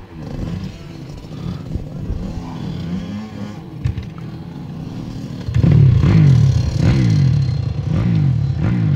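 Motocross bike engine running and revving. About five and a half seconds in it gets much louder, with quick repeated rises and falls in pitch.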